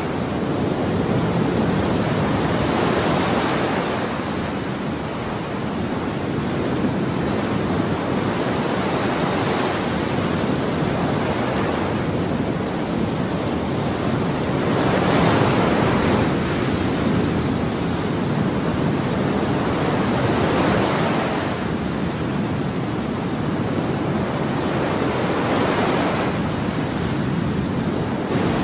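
Ocean waves breaking on a shore in a steady rushing wash, each wave swelling to a brighter hiss about every five to six seconds before easing back.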